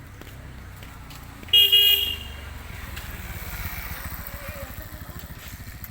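A vehicle horn honks briefly about one and a half seconds in, over the low rumble of passing road traffic.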